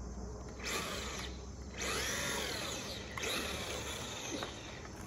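Electric motor of a radio-controlled toy truck whining in three short bursts, its pitch rising and falling as the throttle is pulsed. The truck is tipped over and the motor is revved to try to right it.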